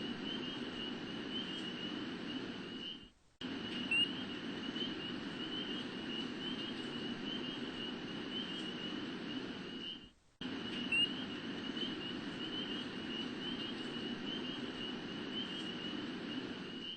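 Rainforest nature-sound recording: a steady chorus of small animals chirping on one high pitch over a low hiss. It cuts out briefly twice and starts over, as a looped track does.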